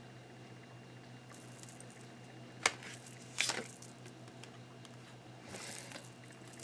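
Tarot cards being handled, faint: light rustling with two sharp clicks a little under a second apart, about two and a half seconds in, like cards being snapped down, then more rustling near the end, over a steady low hum.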